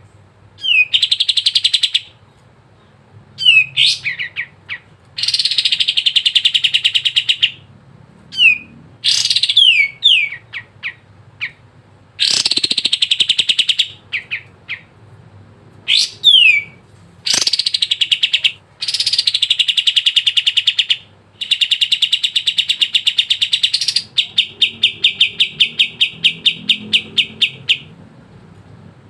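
A kapas tembak songbird singing non-stop: rapid buzzy trills of about two seconds each, alternating with short down-slurred whistled notes. Near the end comes a run of quick repeated notes.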